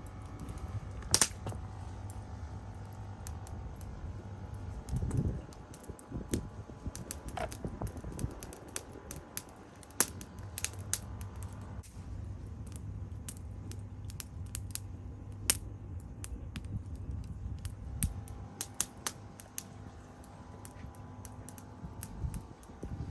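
Firewood burning in a campfire, crackling and popping irregularly, with a few louder snaps over a low steady rumble of the flames.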